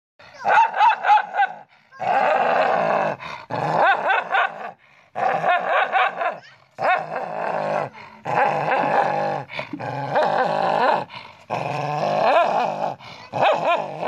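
A dog snarling and growling at its own reflection in a mirror, which it treats as a rival dog. The snarls come in about nine bouts of a second or so, with short breaks between them.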